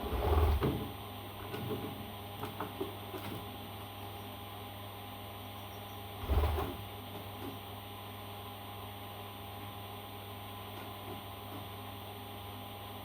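Steady electrical hum, with a brief rustling thump right at the start, another about six seconds in, and a few small clicks in between.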